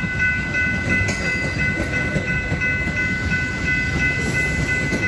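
Metra commuter train rumbling steadily, with a steady high whine of several tones above it.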